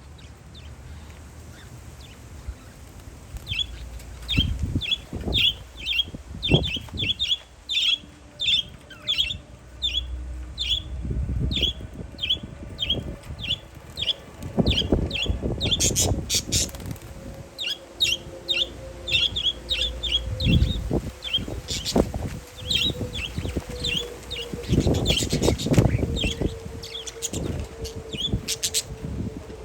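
Parakeets chirping in a long series of short, sharp calls, two or three a second, with gusts of wind rumbling on the microphone. Under them, the faint drone of a passing plane slowly falls in pitch.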